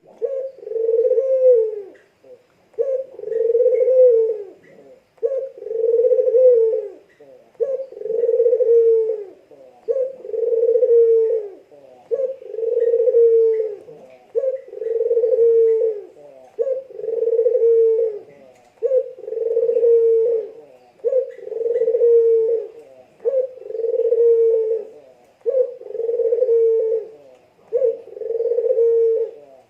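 A kukgerukkok dove cooing over and over, one call about every two seconds. Each call is a short note followed by a longer, low, swelling coo.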